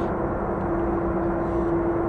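Jet airliner engines running at a distance: a low rumble with one steady droning hum.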